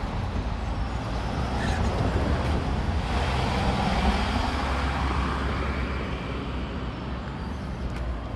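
Road traffic: a motor vehicle passing close by, a steady engine and tyre rumble that swells in the middle and eases off near the end.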